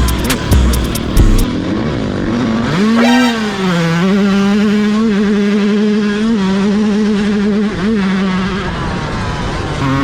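Dirt bike engine revving up about three seconds in, then held at a steady high pitch for several seconds with a couple of brief blips, before falling away near the end. A few sharp clicks and thumps come in the first second or so.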